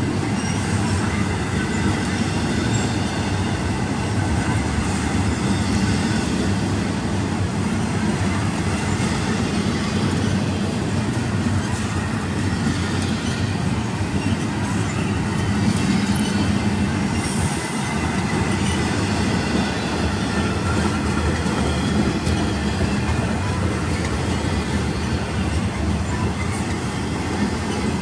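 Intermodal freight cars, double-stack container well cars and then trailer-carrying flatcars, rolling steadily past on steel rails with a continuous rumble of wheels.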